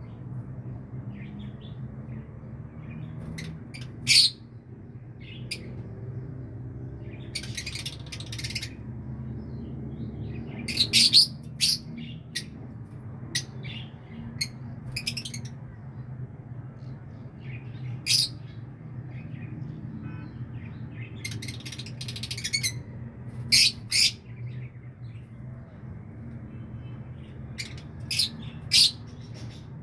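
Birds giving short, sharp chirps and squawks at irregular intervals, several of them in quick pairs, over a steady low hum.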